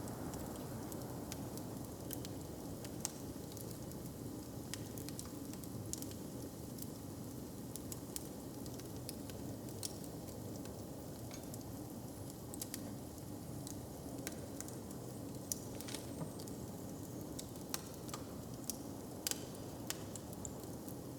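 Open fire crackling, with irregular sharp pops over a steady low rumble.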